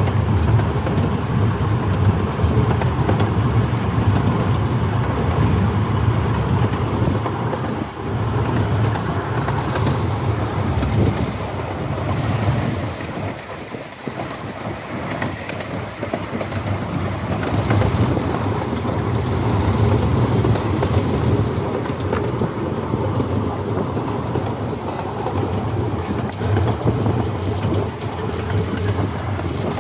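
Amusement-park train running along its track, heard from aboard: a steady rumble of wheels and cars on the rails. It eases off briefly about halfway through.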